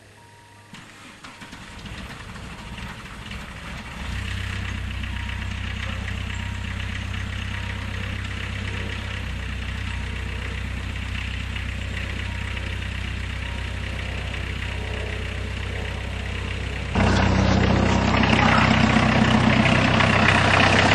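1992 Jetta diesel engine idling in a van just after a cold start at minus 13 °C, started unplugged on the glow plug with the cold-start injection timing advance engaged. The sound starts faint, settles into a steady idle about four seconds in, and gets abruptly louder about seventeen seconds in.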